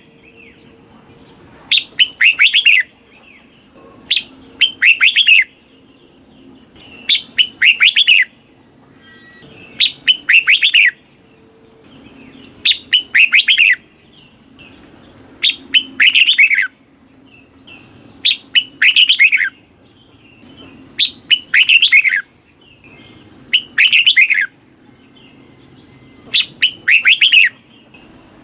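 Red-whiskered bulbul singing: a short, loud phrase of several quick falling whistled notes, repeated about every two to three seconds.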